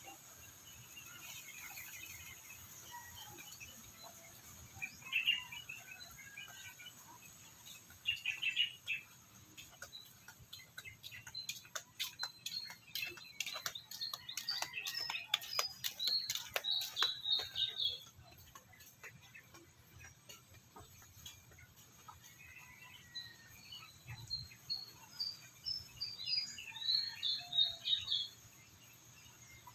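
Bird chirping: scattered short chirps and two runs of quick high notes, with a patch of many faint clicks in the middle.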